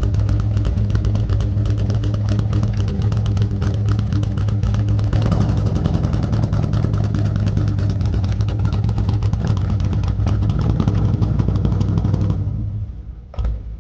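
Car engine running with a loud, pulsing exhaust rumble, a little fuller about five seconds in, then dying away near the end.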